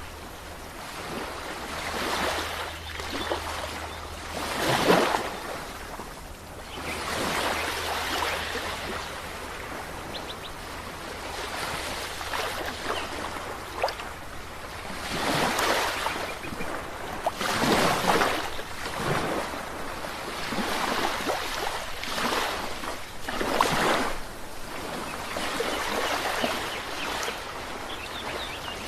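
Ocean waves washing ashore, one surge after another every few seconds over a steady background wash.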